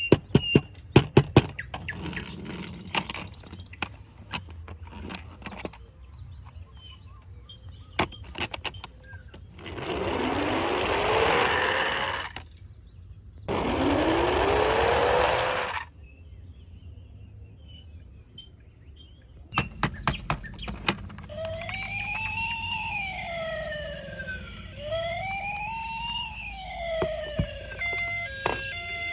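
Sharp clicks, then two loud rushing bursts of about two seconds each with a rising tone in them, then a toy vehicle's electronic siren wailing up and down, about one rise and fall every three seconds, with short beeps near the end.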